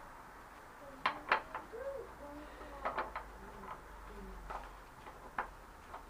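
A few sharp clicks and knocks of tools and metal parts being handled, with a pigeon cooing softly in the background between them.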